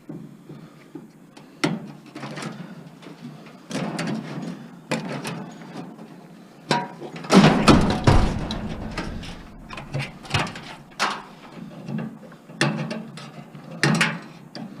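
Irregular metal knocks, clanks and rattles from taking apart a scrap appliance, with one heavier, deeper bang about halfway through.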